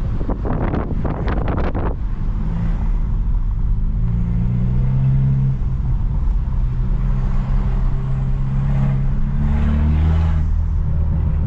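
Stage 2+ tuned BMW F30 328i's turbocharged four-cylinder exhaust crackling and popping rapidly for the first two seconds, then settling into a steady low drone, with a short swell near the end.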